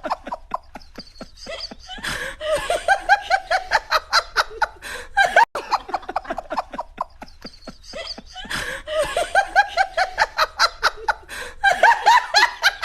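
A person laughing hard in rapid runs of short, breathy syllables, in two long bouts.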